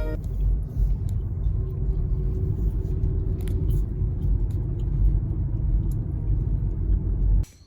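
A steady low rumble that cuts off suddenly near the end.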